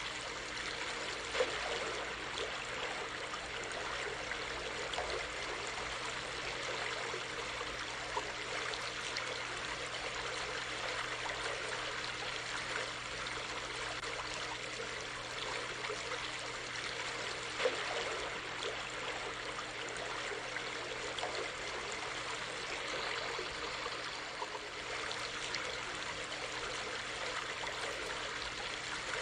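Stream water running steadily over rocks, with a few brief louder splashes.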